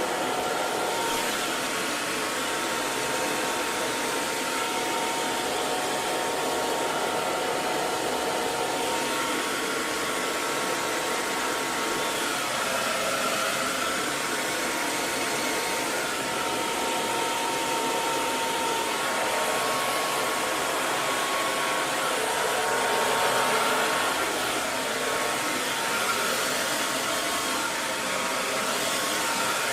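Electric hair dryer running steadily: an even rush of blown air and motor noise with a faint constant whine in it, unbroken throughout.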